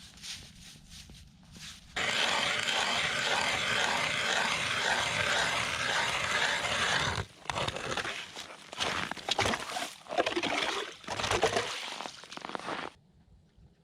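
A hand-cranked MORA ice auger drilling through lake ice: a loud, steady grinding scrape with a regular pulse from the cranking, starting about two seconds in. It stops after about five seconds and gives way to irregular scraping and crunching of ice, which ends shortly before the close.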